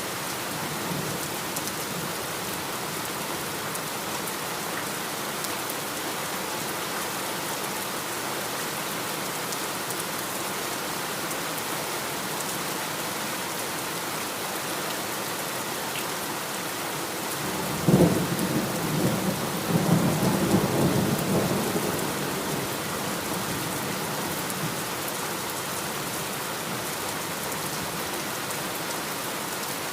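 Steady heavy rain falling, with a clap of thunder about 18 seconds in that rumbles on for several seconds before fading.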